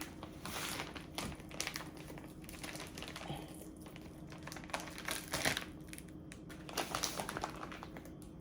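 Plastic cheese packaging crinkling and rustling as it is cut and pulled open by hand, with irregular small clicks.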